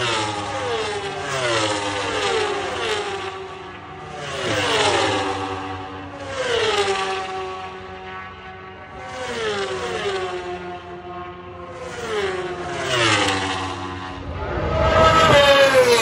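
Motor vehicles passing one after another, a fresh one every couple of seconds; each engine note gets louder and then slides down in pitch as it goes by.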